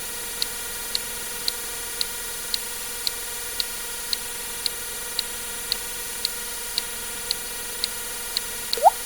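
Water-drip sound effect, a single quick plink gliding upward in pitch near the end, over steady sharp ticking about twice a second and a constant hiss.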